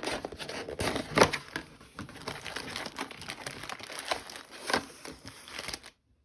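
Plastic wrapping of trading-card packs crinkling and tearing as it is handled and opened, with a sharper rip about a second in and another near the end. The sound cuts off suddenly just before the end.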